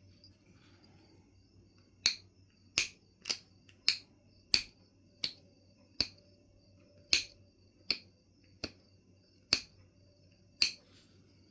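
Knife River Flint being knapped: about a dozen sharp clicking strikes on the stone, starting about two seconds in and coming roughly every two-thirds of a second to a second.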